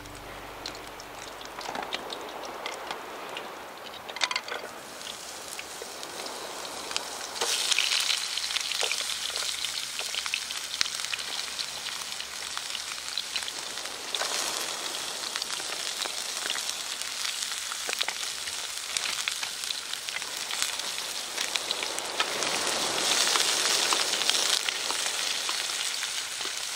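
Food sizzling and spitting in a frying pan, a steady hiss with small crackles that grows louder in surges about a quarter of the way in, around halfway, and again near the end.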